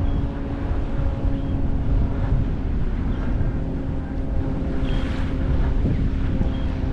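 Wind buffeting the microphone, with a steady engine drone underneath that fades out near the end.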